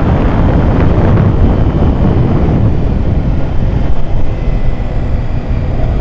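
Wind rushing and buffeting over the microphone of a motorcycle rider's helmet camera at road speed, with the Kawasaki ZX-6R 636's engine running underneath. The rush eases a little near the end.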